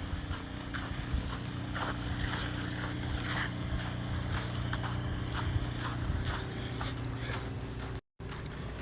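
A vehicle engine running with a steady low hum, under scattered short crunches and scrapes. The sound drops out for a moment near the end.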